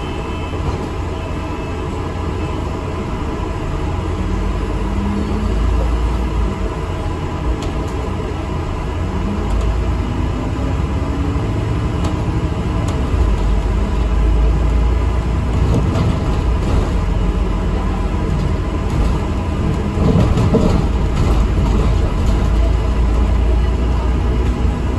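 ADL Enviro 400 MMC double-decker bus driving, heard from inside: a steady low engine and road rumble, with the engine note rising in pitch a few times as it accelerates.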